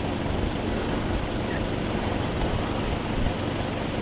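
A motor running steadily, a low rumble mixed with a constant rushing noise.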